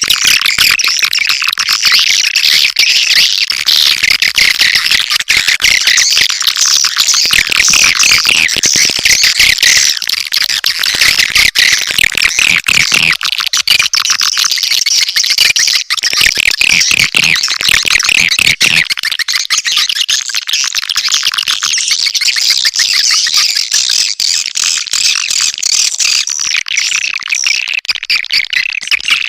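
Swiftlet lure call: a dense, unbroken stream of rapid, high twittering chirps from swiftlets, the recorded calling sound played to draw swiftlets into a nesting house.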